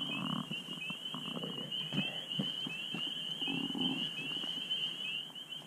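Steady, rapid high-pitched chirping of night insects calling, with low muffled rustles and light knocks underneath.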